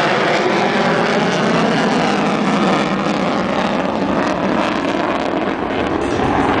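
Rockwell B-1 Lancer bomber's four General Electric F101 turbofan engines, loud and steady as the jet flies past.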